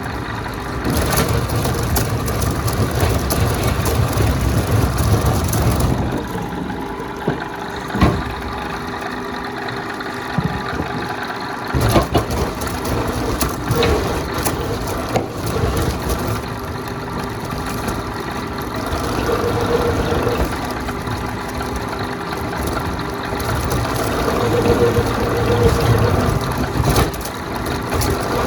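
Veneer peeling lathe running: a steady machine hum with swells and dips as the load changes, and a couple of sharp knocks about 8 and 12 seconds in.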